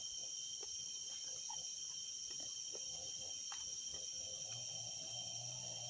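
A steady chorus of insects, several high steady pitches held without a break, with faint scattered ticks. A faint low hum comes in about two-thirds of the way through.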